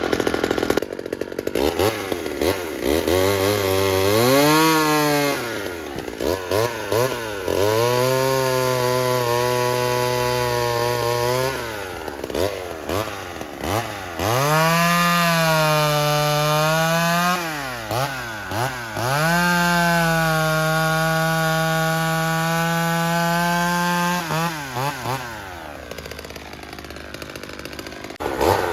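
McCulloch Mini Mac 35, a small 33 cc two-stroke vintage chainsaw, being run through limbing cuts. It revs up and holds high speed in three long bursts of a few seconds each, dropping back between them, and falls to idle near the end.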